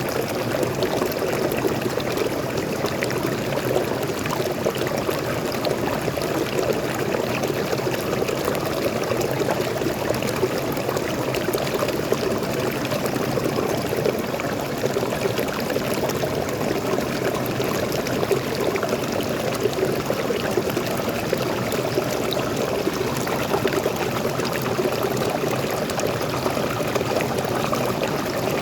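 Small forest waterfall, freshwater pouring and splashing in a steady, even rush.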